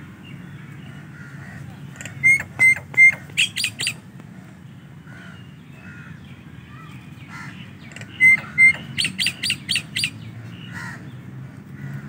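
Common myna calling: two runs of six or seven sharp, repeated notes, one about two seconds in and one about eight seconds in, over a steady low background rumble.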